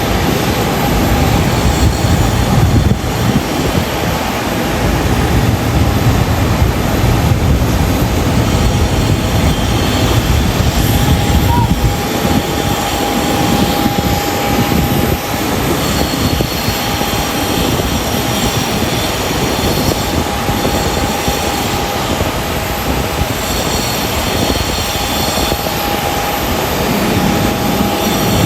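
Jet engines of a Boeing 737-8 (CFM LEAP-1B turbofans) running at high power: a loud, steady rush with a high whine. A low rumble under it weakens about twelve seconds in.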